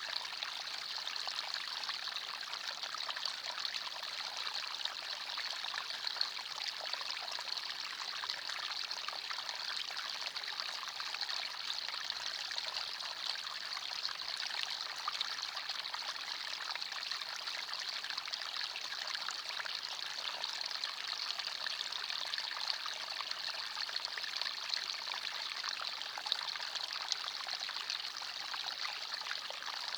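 Small forest stream flowing and trickling over stones, a steady bright rush of water.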